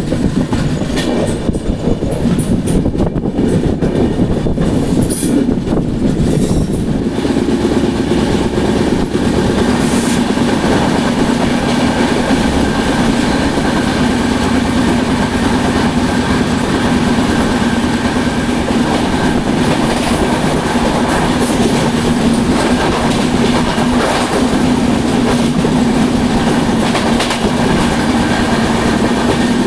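Duronto Express passenger train running at speed: continuous wheel-on-rail rumble with clickety-clack over the rail joints. About seven seconds in the noise evens out and a steady low hum comes through.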